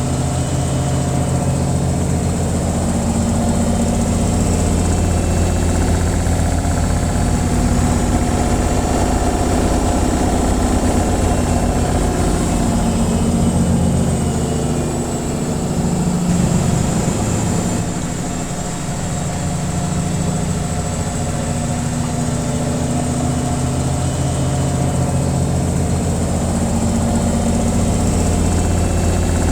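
Washing machine on its spin cycle: a steady low hum with a noisy rush above it, easing off slightly a little past the middle.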